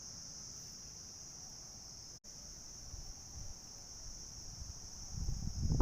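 Steady high-pitched trilling of insects, cut off for an instant a couple of seconds in, with low handling knocks and a louder low rumble near the end.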